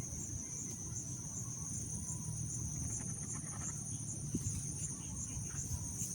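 Crickets chirring: a steady high trill that pulses about three to four times a second, over a faint low background rumble.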